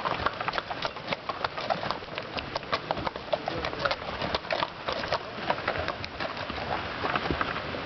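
Hooves of a passing mule train clopping on the trail in many uneven, overlapping steps.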